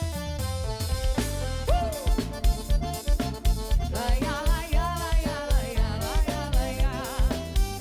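Live band playing an instrumental passage between sung lines: a drum kit keeping a steady kick beat about twice a second under bass and chords, with a melodic lead line whose notes slide and bend.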